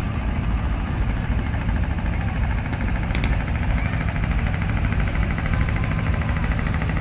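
Large diesel truck engine running at low revs, a deep steady rumble, with two sharp clicks about three seconds in.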